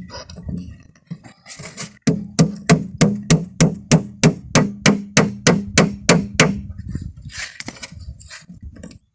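Hammer blows bending nails over flat against a car tyre: a quick, even run of about four strikes a second for some four seconds, with a ringing note under the blows.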